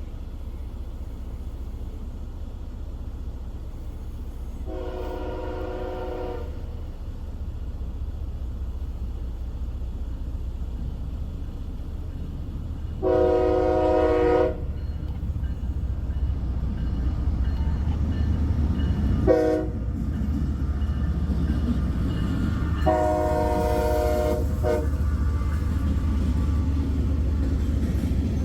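An approaching CSX freight train's diesel locomotive horn sounds the grade-crossing signal: two long blasts, a short one, then a final long one, with the second blast the loudest. Under the horn, the low rumble of the locomotive grows steadily louder as the train draws near.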